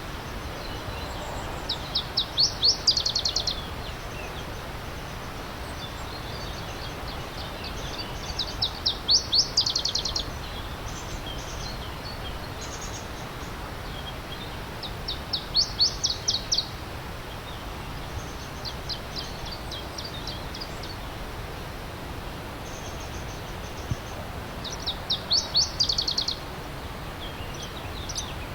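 Stream water running steadily, with a songbird repeating one song about five times: a run of rapid high notes that speeds up and gets louder, each phrase lasting about a second and a half.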